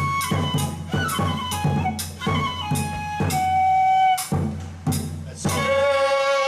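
Bangaku ritual-dance music: a Japanese bamboo transverse flute plays a melody of held notes over a steady beat of drum and metal hand-cymbal strikes. A long held note starts near the end.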